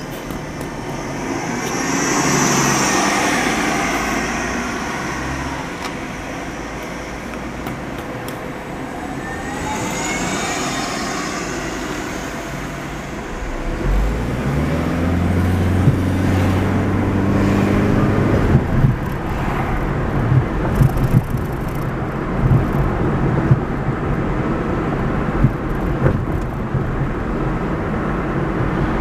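Car driving on a road with steady engine and tyre noise. In the first few seconds a passing vehicle swells and fades. About halfway through the engine note rises as the car accelerates, and the last third has irregular thumps over the road noise.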